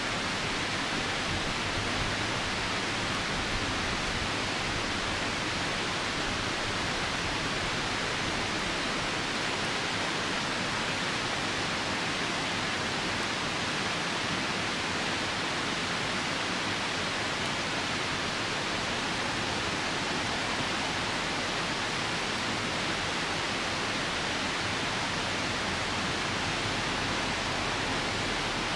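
Steady rushing of a river, an even hiss with no separate pops or crackles.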